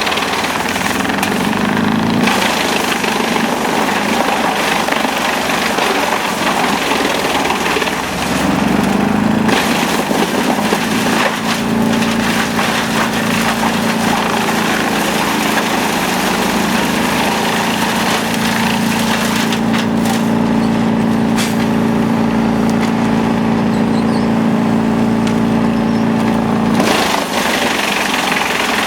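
Wood chipper running loudly with a steady engine drone under the rough noise of wood being shredded. The sound shifts abruptly a few times.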